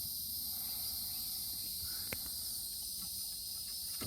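Steady high-pitched chorus of insects such as crickets or cicadas, with one faint click about two seconds in.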